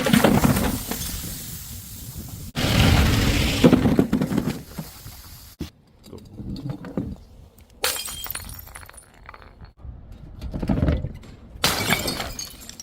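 Glass bottles smashing and shattering, several separate breaks one after another, each a sudden crash trailing off into tinkling shards.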